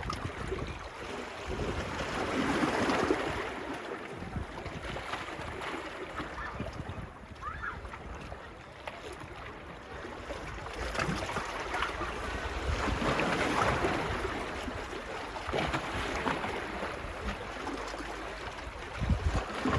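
Small waves washing onto the beach, swelling and easing twice, with wind rumbling on the microphone.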